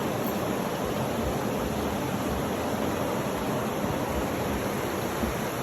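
Steady, even rushing noise of a sleep-sound track, spread across low and high pitches and unchanging in level.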